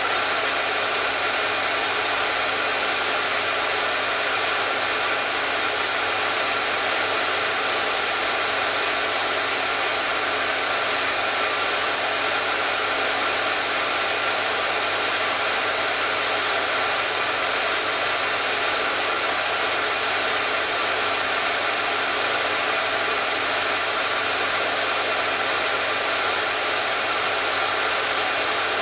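Hair dryer running continuously: a steady, unchanging blowing hiss with a faint motor hum.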